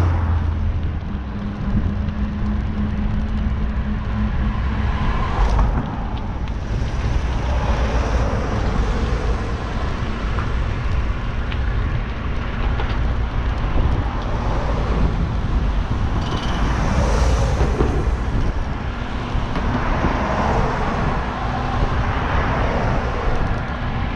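Traffic on a main road: cars passing one after another, several swelling up and fading away over a steady low rumble.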